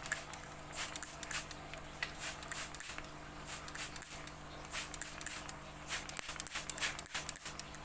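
Baby bird bathing: soft, irregular spatters and rustles of water and wet feathers, over a steady low hum.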